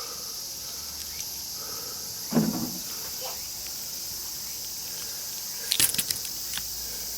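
Steady high chirring of crickets or other insects in the background, with a short grunt-like voice about two and a half seconds in. Near six seconds a quick cluster of sharp clicks comes from the cut-in-half small transformer's iron core as it is handled.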